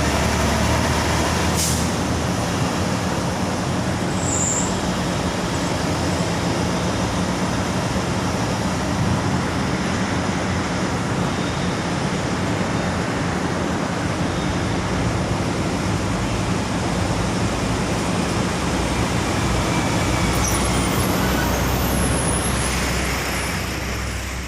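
Diesel engine of a large intercity bus running steadily amid terminal traffic, with a short sharp click about a second and a half in.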